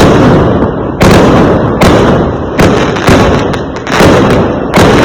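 Fireworks going off in quick succession: six loud bangs about a second apart, each trailing off in a rumble.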